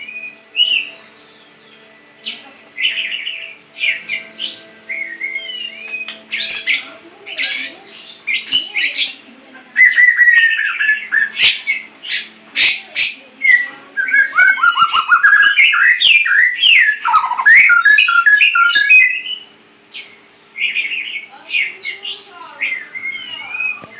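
A pet songbird singing a long, varied song of quick chirps, whistled glides and harsh squawky notes. It is busiest and loudest in the middle stretch.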